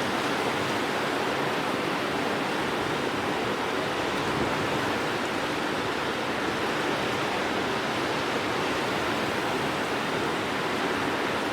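Steady rushing of rough, wind-whipped sea waves, an even noise that does not let up.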